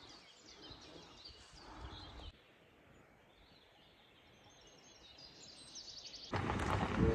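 Outdoor ambience with birds chirping over a low background hiss. About two seconds in it drops to a quieter stretch, and near the end a much louder, noisy clattering begins.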